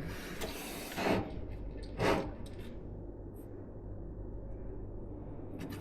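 Hands handling computer parts: a rustle at the start, two short louder scraping handling noises about a second apart, then only a low steady hum.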